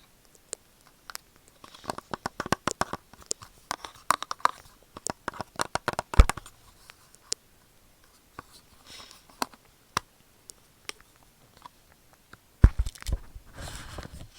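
Close-up crackling and clicking right at an earphone microphone: a dense run of crisp crackles, then scattered single clicks, and a louder crunchy rub near the end.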